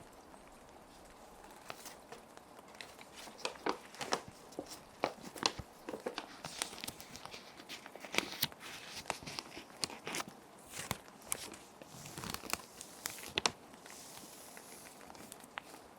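Plastic sheet protectors crinkling and rustling in short, irregular bursts as paper sheets are handled and slid into them, busiest in the middle stretch. Underneath runs a steady hiss of background rain.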